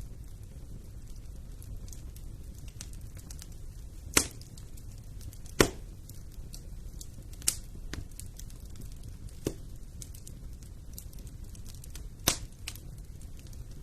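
Wood fire in a fireplace crackling over a steady low rumble, with many faint ticks and five sharp pops spread through, the loudest about five and a half seconds in.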